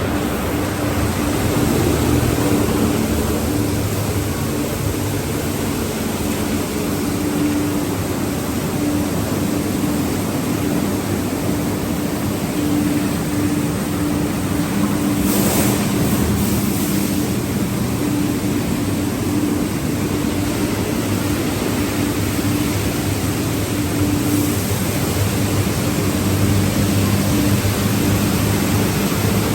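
Automatic tunnel car wash equipment running: a steady roar of spraying water and machinery with a low, even hum, and a brief louder rush about halfway through.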